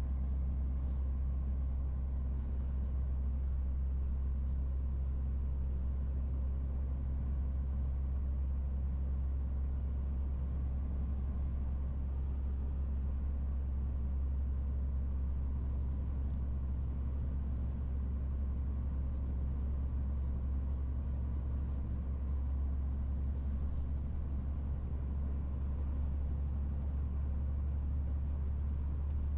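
MAN TGX 18.470 truck's straight-six diesel running steadily while driving, a constant low drone.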